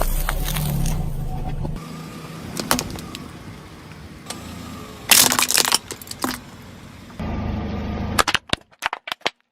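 Something brittle being crushed: sharp cracks and snaps, the loudest cluster about five seconds in and a quick run of snaps near the end.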